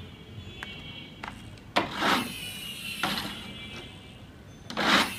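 Plastic toy car being handled: a few light clicks, then three short mechanical whirring rattles like its gears turning, the loudest near the end.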